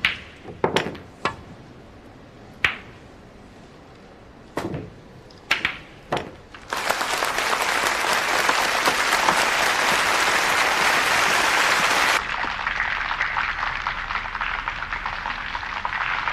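Several sharp clacks of billiard balls being struck over the first six seconds or so, then an audience bursts into applause about seven seconds in, loudest at first and dropping to a lower level near the end.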